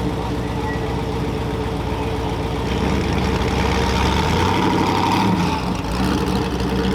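A car engine running at low revs, with the revs briefly rising and falling about four to five seconds in.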